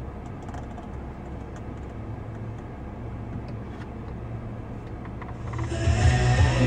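Steady low rumble inside a car cabin with a few faint clicks, then music from the car's audio system coming in about five and a half seconds in.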